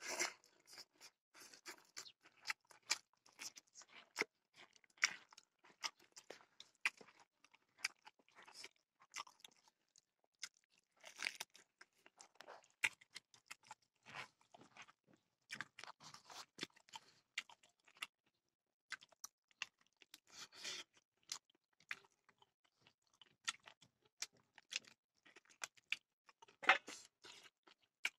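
Close-up chewing of a mouthful of rice, pork leg, beans and greens eaten by hand: soft, irregular wet clicks and crunches, with a few louder stretches of chewing.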